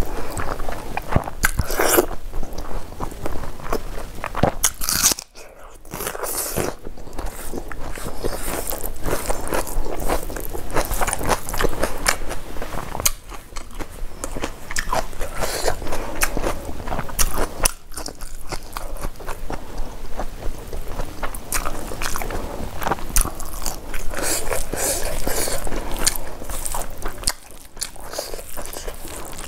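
Close-miked chewing and crunching of fried food and rice: a dense run of small crackling clicks, with two short pauses, about five seconds in and near the end.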